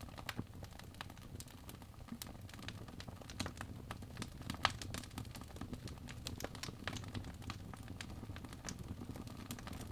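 Fireplace crackling: irregular sharp pops and snaps from the burning wood over a steady low rumble of the fire.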